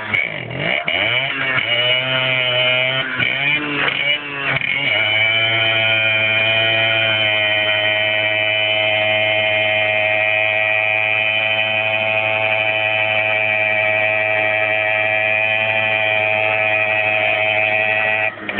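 Motocross motorcycle engine revving up and down for the first few seconds, then held at one steady high pitch for about thirteen seconds before it drops off near the end.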